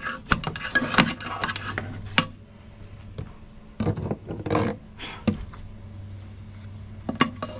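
Scattered knocks, clicks and scraping as tools and parts are worked inside a boat's foam-filled compartment, over a faint steady low hum.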